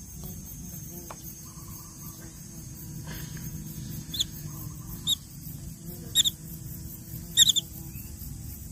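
Baby birds giving short high-pitched chirps, single calls about a second apart that end in a quick cluster, the loudest, near the end. A steady low hum runs underneath.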